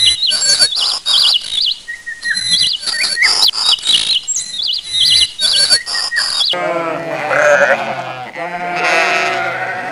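Birds chirping in quick, high twittering phrases with scattered sharp clicks, then about two thirds of the way through an abrupt change to sheep bleating, several bleats overlapping.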